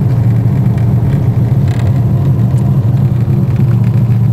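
1988 Corvette Challenge car's 5.7-litre V8 running steadily at low touring speed, a deep even drone with no revving.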